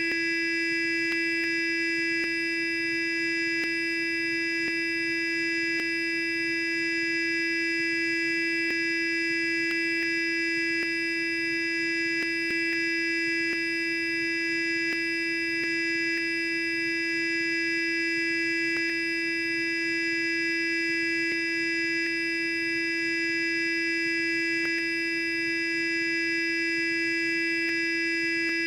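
Sonic electric toothbrush running continuously: a steady, unchanging buzzing hum at one pitch, with faint ticks here and there.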